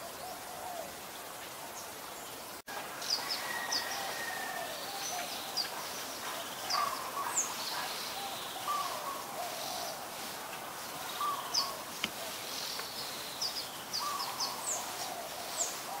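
Several wild birds calling in the trees: short, high chirps over lower call notes, with a faint hiss underneath. The sound drops out for an instant about two and a half seconds in and comes back with busier calling.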